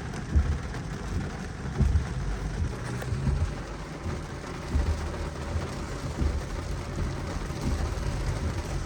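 Car driving, heard from inside the cabin: a steady low road-and-engine rumble with irregular low thumps.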